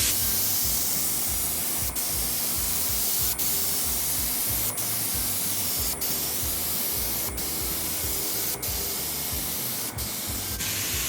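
HVLP paint spray gun hissing steadily as it sprays at about 20 psi, with short breaks about every second and a half.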